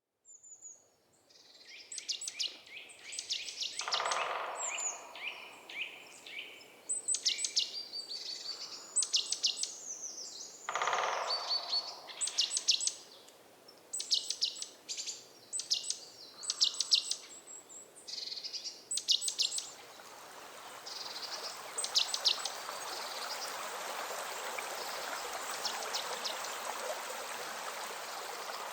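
Birds singing, with clusters of short, high, repeated chirps and trills. About two-thirds of the way through, the calls thin out and a steady rushing noise comes in.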